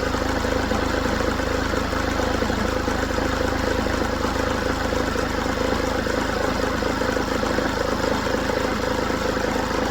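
Mercedes W204 engine idling steadily with a constant tone over the running. After a new belt tensioner pulley it still runs rough, only slightly improved, and the alternator's freewheel pulley is the next suspect.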